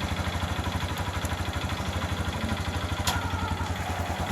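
Motorcycle engine idling steadily on its stand, with an even, rapid putter. A single sharp click comes about three seconds in.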